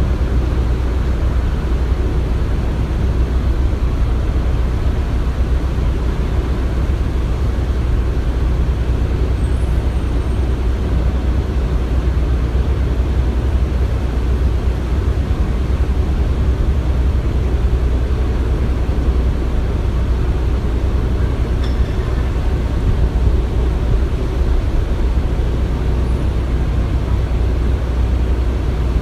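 Construction-site ambience: heavy machinery running in a steady, deep rumble without pause.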